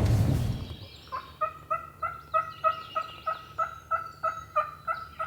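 Turkey yelping: a run of about fifteen short, evenly spaced yelps at a steady pitch, about four a second, starting about a second in. Faint songbird chirps sound behind it.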